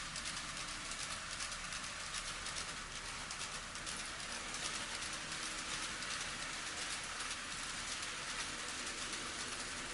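N scale model train running on the layout's track: a steady fine rattle and hiss of small wheels on the rails and the model's motor.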